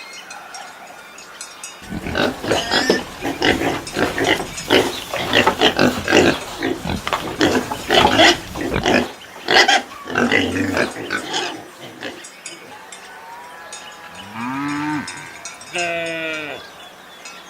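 Animals calling. A dense, rough run of rapid noisy cries lasts about ten seconds, then two short pitched calls bend up and down near the end.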